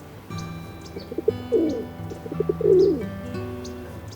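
Pigeon cooing: two phrases of quick low notes, each ending in a longer coo that falls in pitch, over light guitar background music.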